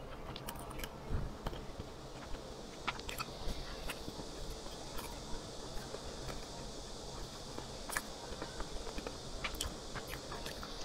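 Chewing soft sweet bread: irregular wet mouth clicks and small smacks over a steady hiss.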